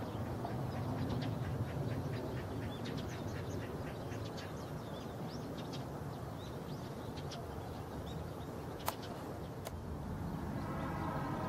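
Small birds chirping in quick runs of short, high notes over a steady low outdoor rumble. Near the end there are two sharp clicks about a second apart, the first the loudest.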